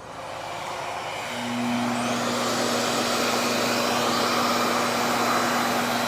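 RevAir reverse-air hair dryer switched on, its suction motor spinning up over about a second and a half, then running steadily with a low hum under a loud rush of air.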